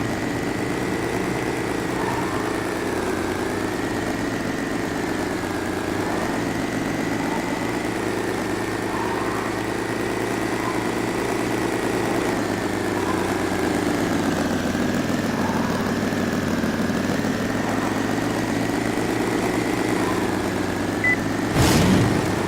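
A steady engine drone with a thin, slightly wavering whine above it, and a single knock near the end.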